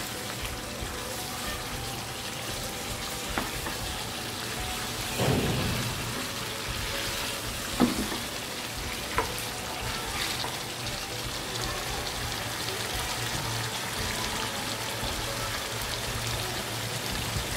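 Chicken pieces sizzling as they fry in oil and masala in a pan over a high flame. A spatula scrapes and knocks against the pan a handful of times as the meat is stirred.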